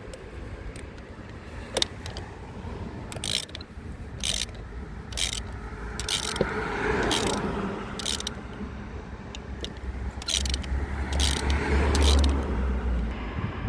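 Hand-tool work on a car: a series of short rasping, ratchet-like strokes, roughly one a second, over a steady background rumble that grows louder for a couple of seconds near the end.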